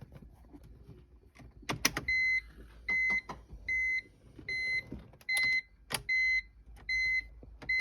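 A BMW E46's electronic warning chime beeping steadily, about eight short high beeps a little under a second apart, after a couple of sharp clicks about two seconds in.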